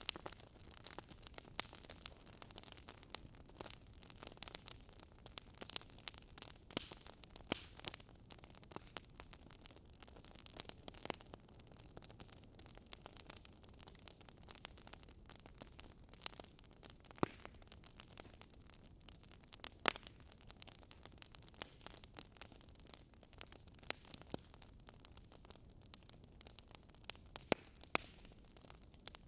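Wood fire crackling: irregular sharp pops and snaps over a low, steady hiss.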